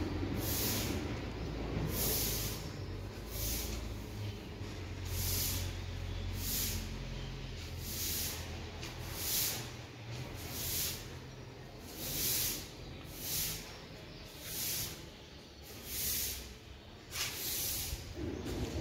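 Low rumble of a freight train of open wagons beside the platform, fading out about ten seconds in. Over it, close hissy breaths come roughly once a second.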